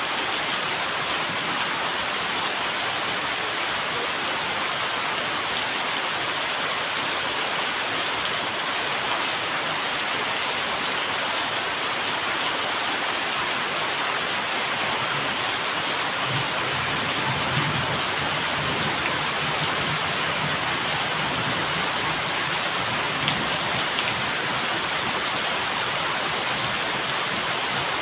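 Steady rain falling, with a low rumble of distant thunder about halfway through.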